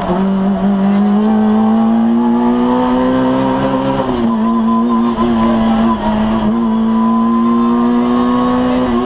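Citroën AX GTI rally car's 1.4-litre four-cylinder engine heard from inside the cabin, pulling hard with the revs climbing steadily, a quick upshift about four seconds in, then the revs climbing again.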